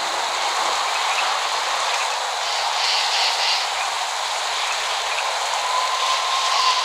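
Steady rain falling, an even hiss with no thunder. Near the end a thin, faint tone joins in, wavering slightly in pitch.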